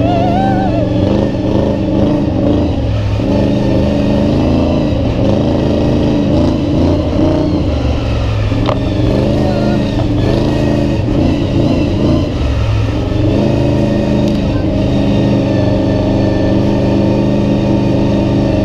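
Monster truck engine running under way, heard from a rider in the truck, its pitch rising and falling as the throttle is worked.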